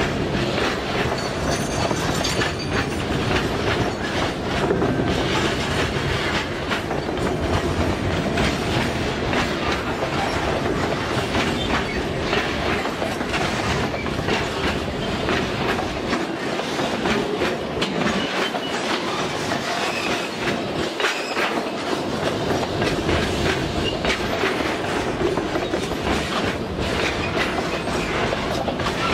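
Loaded boxcars of a metre-gauge freight train rolling past close by: steel wheels clattering over the rail joints in a steady, unbroken rumble.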